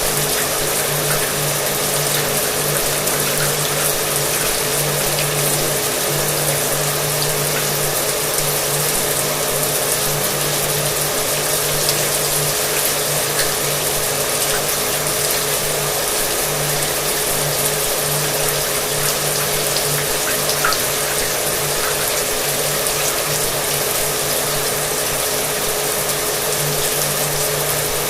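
Shower water spraying in a steady hiss, with a hair dryer's motor running underneath as a steady whine and low hum.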